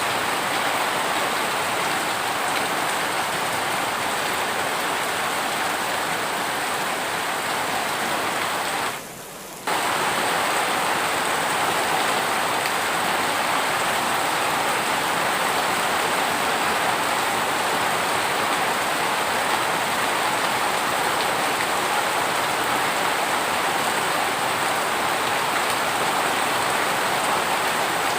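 Heavy rain falling steadily, an even hiss of rain on surfaces. It briefly drops away and quiets about nine seconds in, then returns at full strength.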